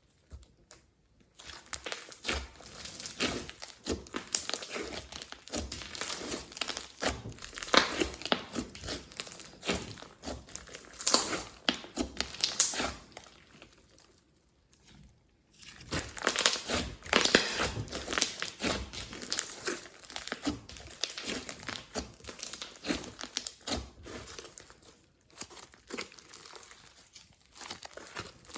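Slime being squeezed and stretched by hand, giving dense crackling. It goes on in two long stretches with a pause of about two seconds in the middle and thins out near the end.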